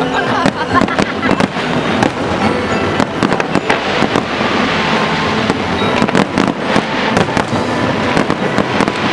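Fireworks display: aerial shells bursting and crackling in quick, irregular succession, many sharp bangs overlapping.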